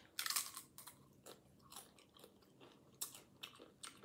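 Close-up crunch of a tortilla chip bitten off, loudest just after the start, followed by repeated crunching as it is chewed with mouth sounds.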